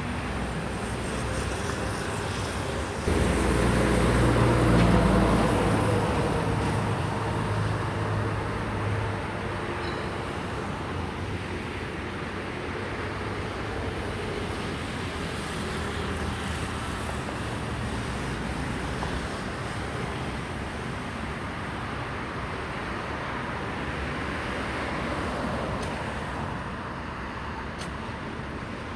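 Jet engines of a Boeing 767-300ER on final approach, a steady rushing noise. A louder low hum comes in suddenly about three seconds in and fades over the next few seconds.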